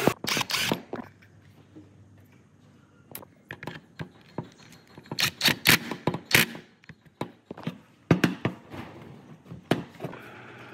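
Scattered sharp clicks and knocks, coming in short clusters, like hard tool parts being handled, set down and fitted together.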